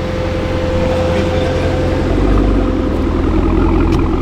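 Supercharged V8 car engine running hard, getting louder over the first two seconds, with a steady whine that fades out about three seconds in.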